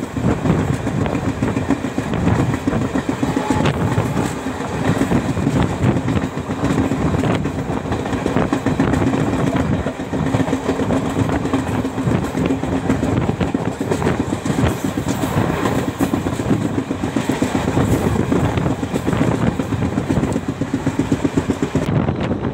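Express passenger train running at speed, heard from on board: a steady, loud rumble with a fast, continuous rattle of wheels over the rails.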